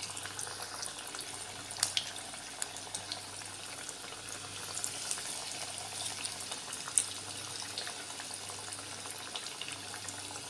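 Breaded corn cutlets frying in hot oil: a steady sizzle with scattered sharp pops, a louder pop about seven seconds in, over a faint low hum.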